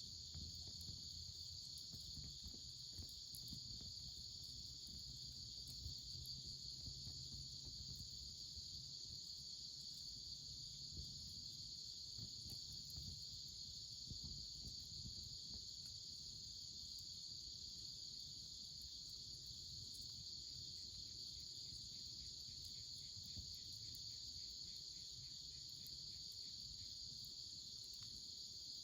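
Insects singing in a steady high-pitched chorus, with a second, faint pulsing insect call joining for several seconds in the latter part. Faint scattered crackles and a low rumble lie underneath.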